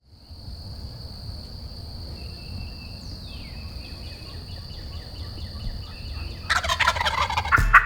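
A wild turkey gobbler gobbles loudly near the end, a rattling call that is the loudest sound here. Before it there is a steady high-pitched tone and a faint run of repeated chirps.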